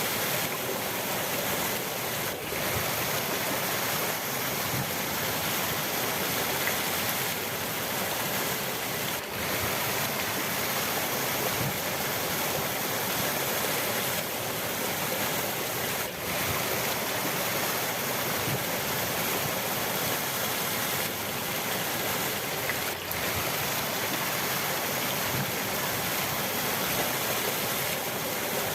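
River water rushing and splashing steadily, an even unbroken flow.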